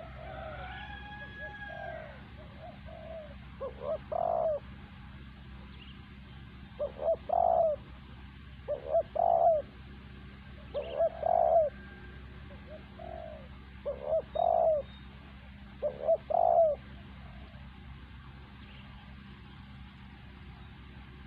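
Spotted dove (terkukur) cooing: about six short phrases of two or three low notes each, a couple of seconds apart, with nothing after the last one. Another bird gives a few brief higher calls at the start.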